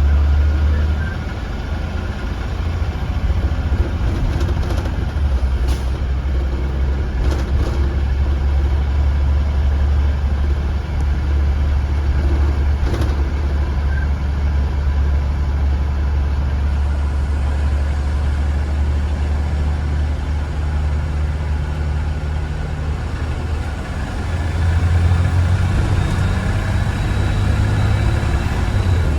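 2015 Blue Bird Vision school bus engine running with a steady low drone as the bus drives, its note stepping higher near the end.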